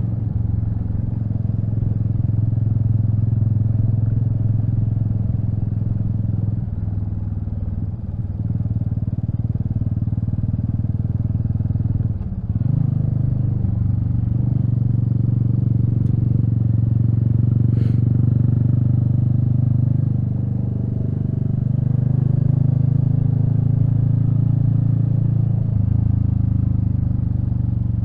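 Royal Enfield Meteor 350's single-cylinder engine running steadily while riding, its note dipping briefly a few times as the throttle eases.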